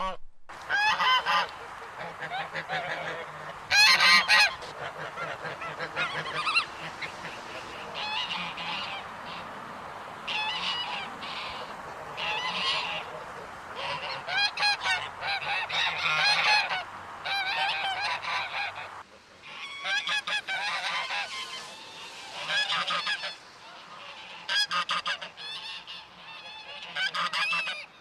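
A flock of geese honking over and over, the calls often overlapping above a continuous murmur of flock noise.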